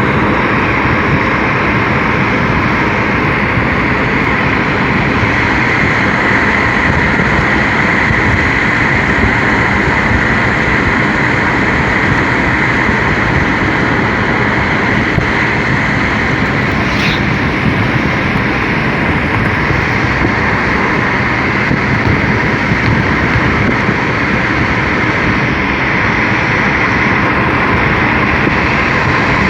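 Rushing floodwater: a loud, steady noise that does not let up.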